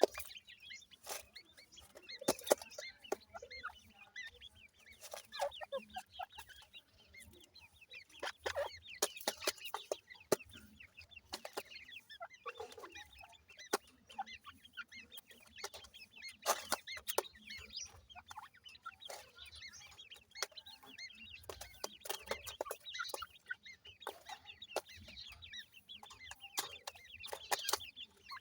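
Ring-necked pheasant chicks peeping, many short high calls overlapping, with scattered sharp taps throughout.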